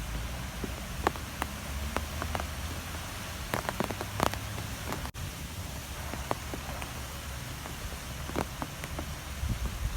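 Strong wind blowing in a steady rush with a low rumble, scattered with sharp ticks and taps against a surface. The sound drops out for an instant about halfway through.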